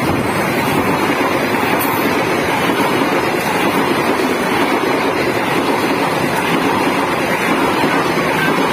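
Passenger train coaches rolling past close up: a loud, steady rush of steel wheels running on the rails.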